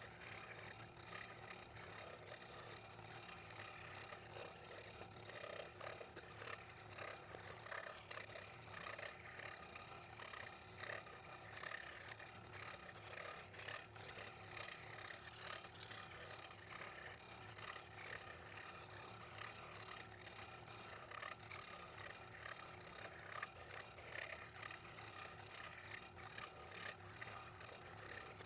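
Scroll saw running and cutting through a stack of thin plywood ornament blanks: a faint, steady, fast rattle from the reciprocating blade.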